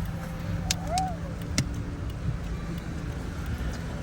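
Low steady rumble inside a car's cabin, with a few sharp clicks in the first two seconds.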